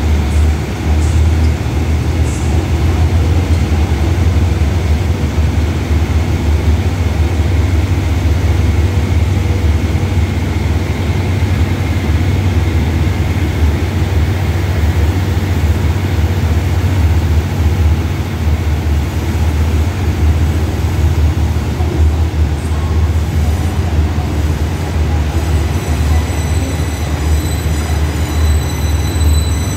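Train making a steady, loud low rumble at close range, with thin high squealing tones coming in near the end.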